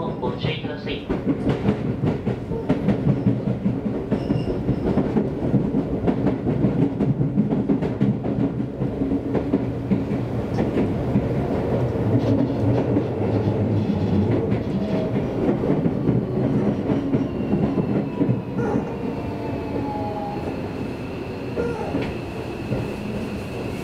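Seibu Railway electric express train running along the line, wheels clattering over rail joints with steady rumbling running noise, heard from inside the carriage. Near the end the running noise eases and a steady high whine comes in.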